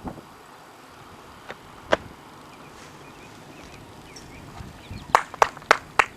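A person clapping: two single claps, then a quick run of claps near the end.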